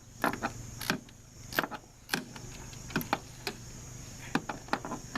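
Irregular sharp clicks and knocks of car parts and hand tools being handled and fitted during reassembly, about a dozen in a few seconds, over a faint steady low hum.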